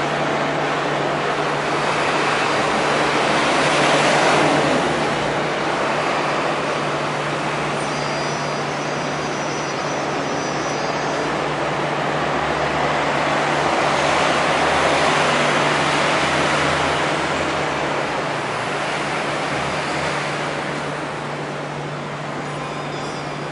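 MTR electric train running: a steady rumble and rush over a constant low hum, swelling louder about 4 seconds in and again around 15 seconds, with a faint high whine between about 8 and 11 seconds.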